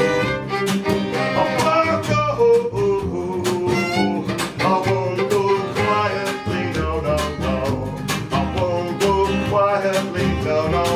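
Acoustic folk band playing an instrumental passage between sung lines: steadily strummed acoustic guitar with sustained melodic lines over it.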